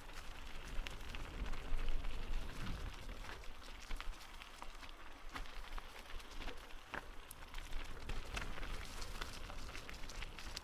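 Footsteps crunching on a dirt forest path: irregular crackling clicks over a low rumble.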